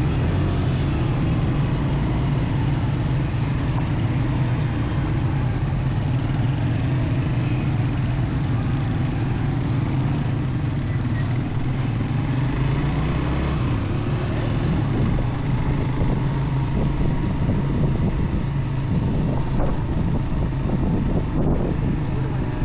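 Motorcycle engine running at a steady speed while riding, a continuous low drone with a rushing noise over it.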